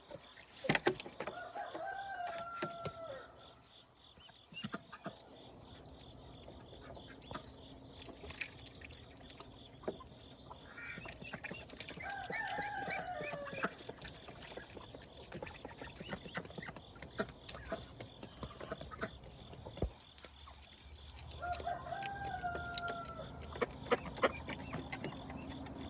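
A rooster crowing three times, spaced several seconds apart, with hens clucking and many short clicks and scrapes between the crows.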